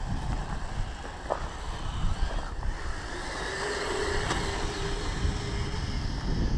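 Wind buffeting the microphone, with the faint steady whine of the Kyosho Blizzard's brushed electric motor as the RC snow groomer drives on its tracks, heard from about halfway in.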